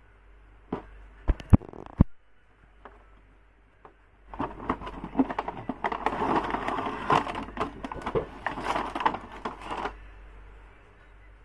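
Handling noises from unboxing: a few sharp clicks in the first two seconds, then about six seconds of dense crinkling and crackling, as of plastic packaging being handled.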